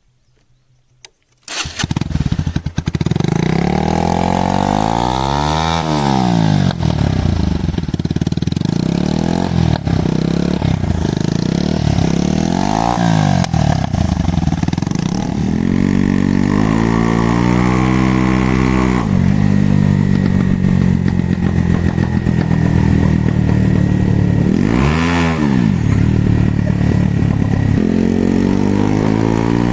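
Bajaj Pulsar NS single-cylinder motorcycle engine starting about a second and a half in, then revved again and again through its silencer. The revs rise and fall in quick blips, with one longer held rev in the middle and a steady idle between.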